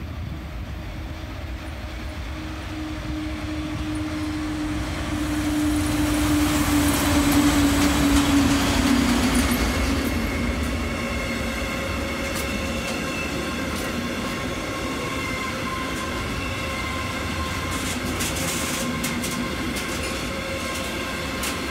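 Electric freight train passing close by. The locomotive's hum falls slightly in pitch as it comes past, loudest about six to nine seconds in. Then the wagons roll by with steady high wheel tones, and a run of clicks from wheels over rail joints comes near the end.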